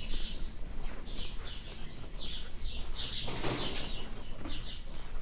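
Small birds chirping: quick clusters of short, high chirps, repeated throughout.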